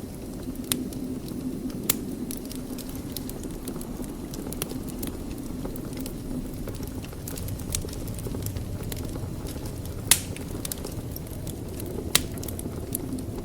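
Wood fire crackling in a fireplace: a steady low rumble of flames with scattered sharp pops, the two loudest about ten and twelve seconds in.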